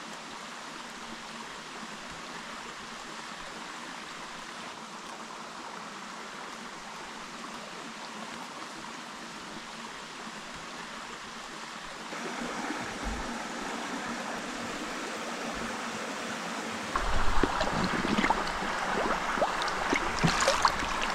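Steady rush of flowing river water. It grows louder about twelve seconds in and again near the end, where scattered clicks and knocks come through.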